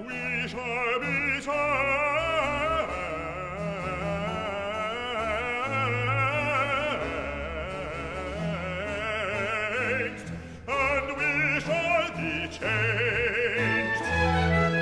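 Operatic bass voice singing a long phrase with wide vibrato, with solo trumpet and orchestra, with a short break about ten seconds in.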